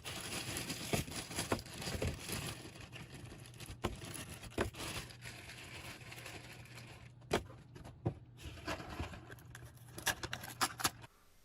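Rustling and crinkling of food being handled and unwrapped, with scattered sharp clicks and knocks, over a steady low hum.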